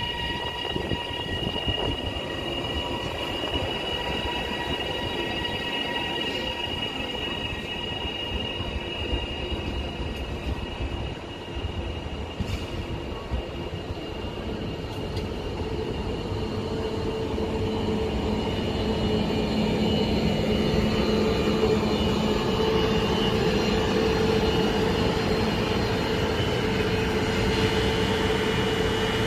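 Northern CAF-built multiple-unit train moving along the platform: a steady whine of several held tones, joined about halfway through by a lower hum as it grows gradually louder.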